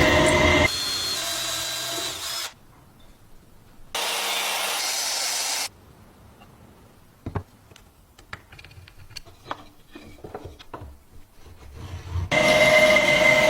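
Power tool running in several separate stretches of steady noise, with quieter passages of small clicks and taps from parts being handled between them.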